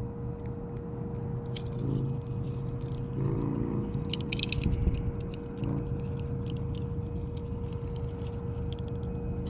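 Close-up handling noise while rigging a hook with a live bait fish: irregular small clicks, ticks and rustles, with a brief cluster of louder clicks about halfway through. Underneath runs a steady low rumble and a constant hum.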